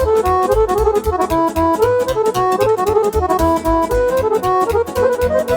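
Accordion playing a fast instrumental run of quick short notes over a steady dance beat with bass and percussion, in a live folk party band.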